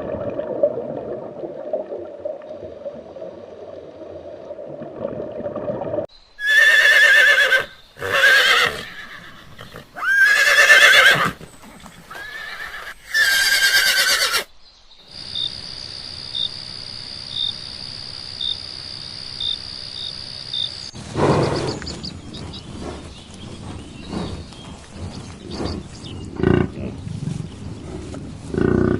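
Horse neighing: four loud whinnies with a shaking, wavering pitch come one after another in the middle. Before them is a steadier sound. After them come a steady high whine and scattered knocks.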